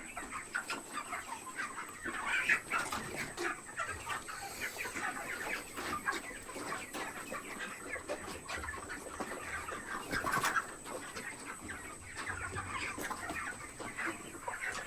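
A flock of chickens clucking continuously in a poultry house, many short overlapping calls, with a steady faint high whine and a single sharp click about ten seconds in.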